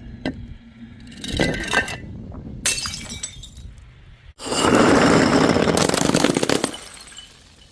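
Glass bottles breaking: a few knocks and glassy clinks in the first three seconds, then a louder, longer burst of breaking and scattering noise about four and a half seconds in that lasts around two seconds and fades.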